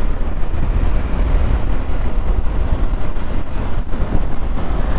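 Wind buffeting on the camera microphone of a moving motorcycle: a steady, heavy low rumble with the bike's engine and road noise mixed in underneath.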